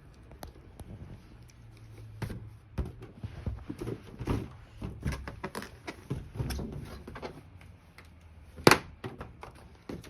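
A balloon being bumped and pawed by a small dog: irregular soft thumps and rubbery rubbing, with one sharp, loud knock near the end.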